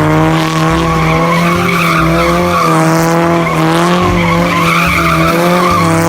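Loud, continuous car sound effect: an engine running at high revs with tyre squeal and skidding, steady throughout.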